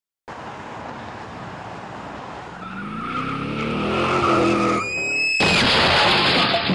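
A car engine revving up with rising pitch, then a high tire squeal for about half a second, then a sudden loud crash with clattering debris.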